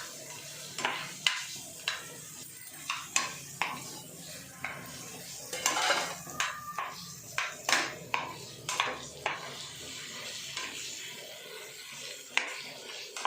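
A spoon stirring chicken pieces in a kadai, knocking and scraping against the pan at irregular intervals over a light sizzle of the frying.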